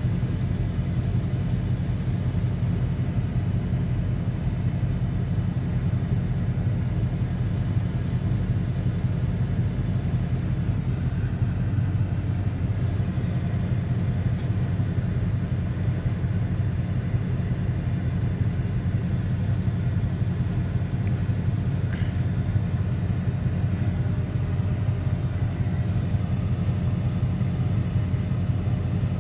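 Steady low vehicle rumble that does not change in pitch or level, like a car running at an even speed.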